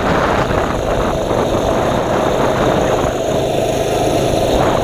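Mini bike's small engine running steadily while riding, with a constant tone and a dense rush of noise over it.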